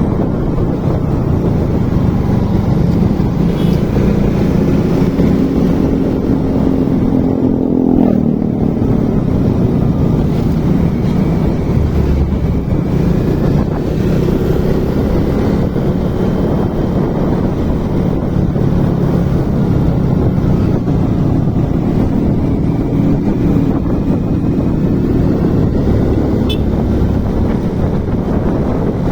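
Motorcycle engine running while riding, with wind rushing over the microphone. The engine pitch climbs from about six seconds in, then drops sharply near eight seconds.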